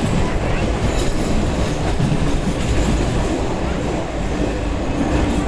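Express train running at speed, heard from inside the coach: a steady rumble of wheels on the rails with a faint clatter.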